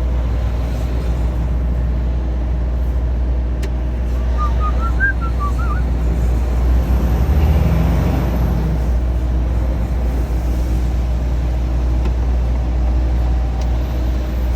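Truck's diesel engine running with a steady low drone that swells briefly about seven to eight seconds in. A few faint short chirps come about four to six seconds in.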